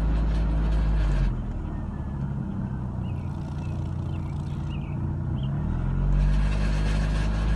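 VW 2.0 ABA inline-four engine running at about 1500 rpm with a sustained malfunction noise over its note under throttle. A little over a second in, the throttle is let off and the noise stops, leaving the engine running quieter. Near the end the fuller sound builds back.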